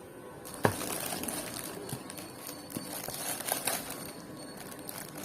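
Crinkling and crackling of toy packaging being handled, with a sharp click about half a second in.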